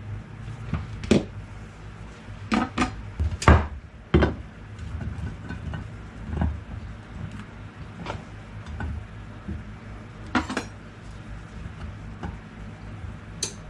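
Dishes and utensils knocking and clinking as they are handled in a kitchen. There is a handful of sharp knocks in the first four seconds, one more about ten seconds in and another near the end, with quieter irregular clatter between them.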